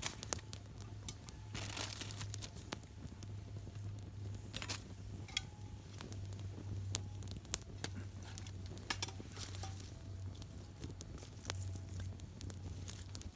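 Open wood campfire crackling, with scattered sharp pops and snaps at irregular intervals over a low steady hum.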